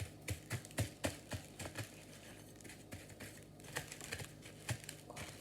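Seeds being stripped by hand onto a plate: irregular light clicks and taps, densest in the first two seconds and then scattered, with faint rustling.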